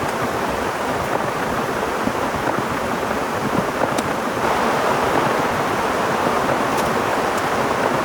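Heavy rain falling in a steady, even hiss, with a few faint ticks.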